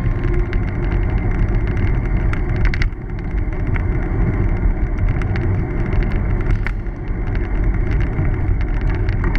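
Steady low rumble of riding noise on a recumbent bicycle, with scattered light clicks and rattles through it.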